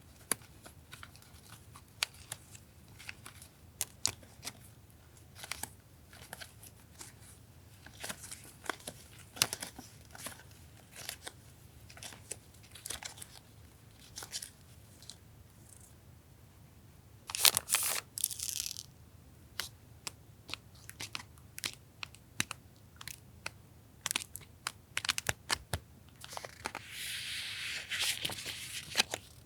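Paper and plastic stationery packets handled by hand: a run of short rustles and soft taps, a louder crinkle about two-thirds of the way in, and a longer rustling tear near the end.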